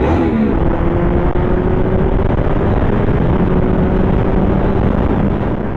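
Kawasaki ZX10R inline-four engine running at steady, slowly rising revs under way, over a dense rush of noise. It fades out near the end.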